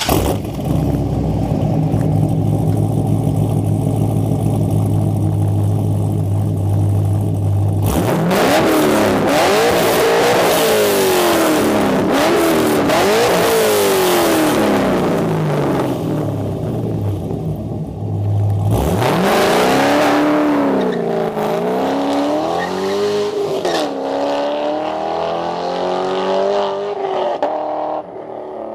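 Chevrolet Corvette C7 Stingray's 6.2-litre V8 idling steadily, then revved up and down in a series of free-revving blips about eight seconds in. It drops back to idle for a few seconds and is then blipped several more times.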